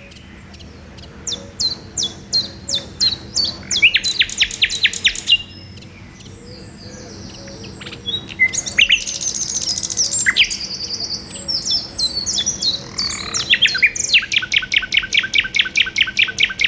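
Male common nightingale singing its territorial song: phrases of rapidly repeated notes and fast trills, broken by short pauses.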